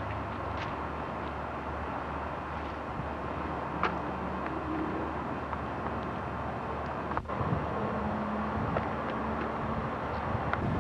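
Steady rumble of wind on the camera's microphone outdoors, with a few faint clicks and a brief break about seven seconds in.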